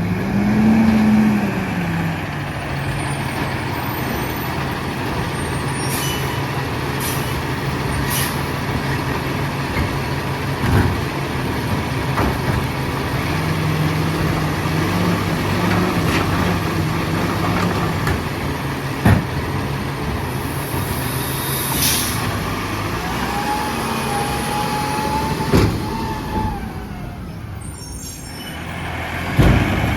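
Freightliner M2 garbage truck's diesel engine running steadily. It speeds up briefly at the start and again for a few seconds mid-way. Short air hisses and a few sharp knocks sound over it, along with a brief whine about three-quarters of the way in.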